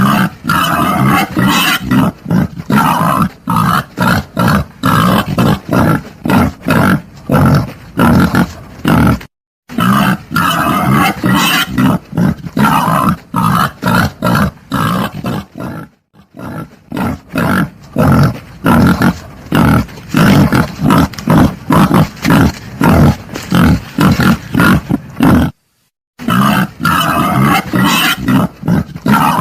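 Wild boar grunting rapidly and without pause: a recorded wild boar call played as a hunting lure. The grunting stops dead three times for a moment, at about 9, 16 and 25 seconds in.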